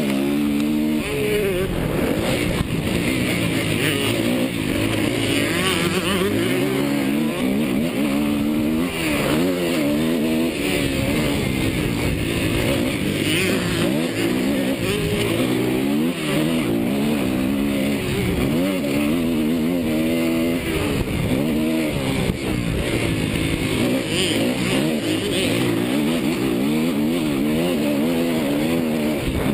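Suzuki motocross bike engine being ridden hard, its pitch rising and falling every second or two as the throttle is opened and closed.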